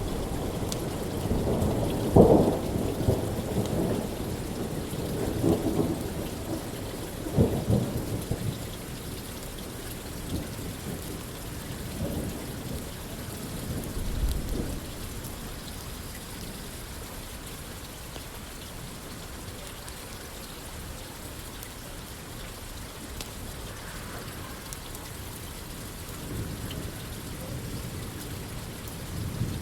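Steady rain falling, with thunder rumbling: a long rolling rumble through the first several seconds, a smaller one in the middle, and another starting at the very end.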